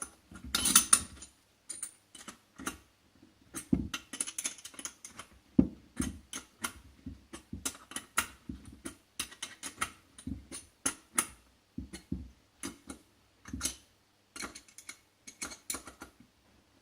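Irregular metallic clicks, taps and clinks of hand tools and small turbocharger parts being handled during assembly.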